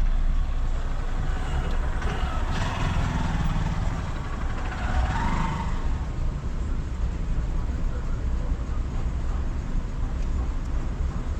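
Steady low rumble of a car's engine and tyres, heard from inside the moving car. A louder passing noise rises and fades between about two and six seconds in.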